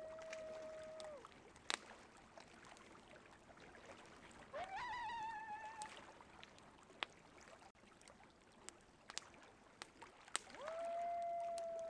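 Coyotes howling: a long held howl that fades about a second in, a rising, wavering howl midway, and another long howl starting near the end. Between them come sharp pops of a crackling wood fire over a faint steady rush of river water.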